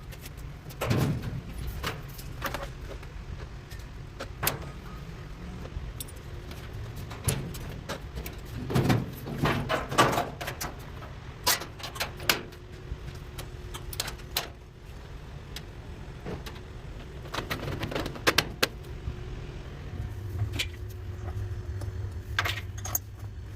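Classic Whirlpool top-load washer running on a test cycle, its brake shoe just refitted. Scattered knocks and clatter sit over a low steady hum, and a deeper motor hum comes in about twenty seconds in.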